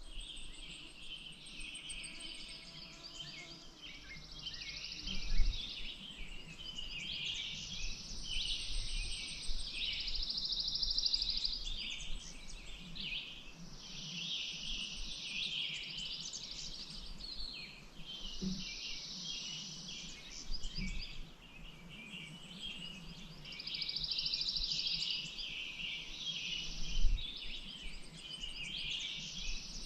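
Wild birds singing, many overlapping chirps and fast trills at once. Two low thumps come about five seconds in and near the end.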